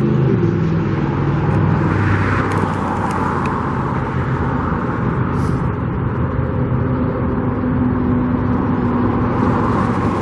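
Vehicle engines and road noise, steady throughout, with a low engine hum that eases off just after the start.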